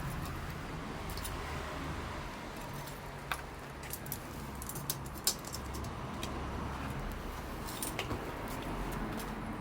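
Wood campfire crackling: a handful of sharp pops scattered over a steady background hiss.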